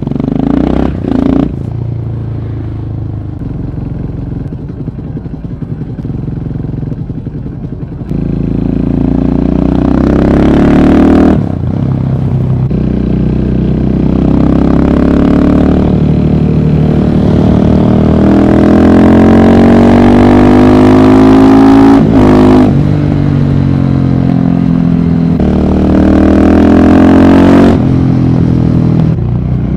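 Single-cylinder motorcycle engine on the move, running fairly quietly at first. About eight seconds in it accelerates hard and stays loud, its pitch climbing through the gears with brief drops at each shift.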